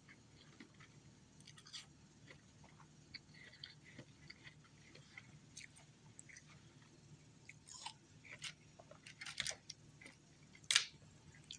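A person chewing and crunching ice: scattered sharp crunches that come closer together and louder in the second half, the loudest near the end, over a faint low hum.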